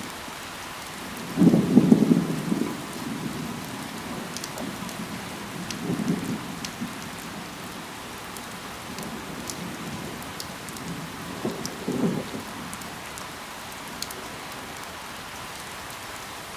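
Steady rain falling on foliage, with scattered crisp drip ticks. Three short low rumbles come through: the loudest about two seconds in, weaker ones around six and twelve seconds.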